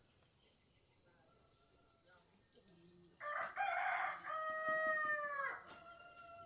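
A rooster crowing once, starting about three seconds in: a long, loud call that falls in pitch as it ends, over the faint steady chirring of insects.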